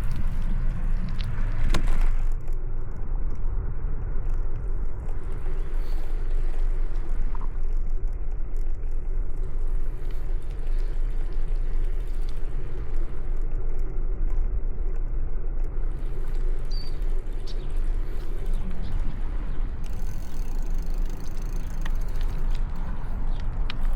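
Steady low rumble of a moving bicycle ride: wind on the microphone and tyre noise on the road, with a few faint clicks.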